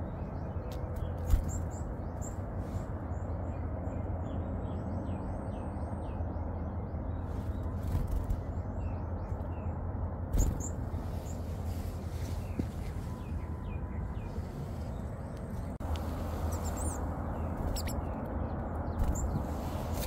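Small songbirds chirping in short high notes, with one thin high whistle held for about two seconds starting about four seconds in. A steady low rumble runs underneath, and a few sharp knocks stand out, the loudest about a second in.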